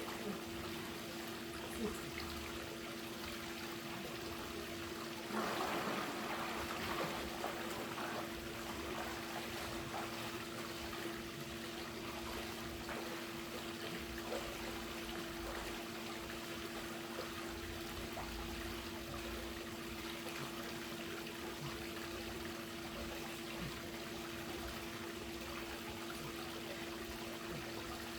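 Swimming-pool water trickling and lapping steadily over a steady low hum. About five seconds in there is a louder stretch of splashing lasting a couple of seconds.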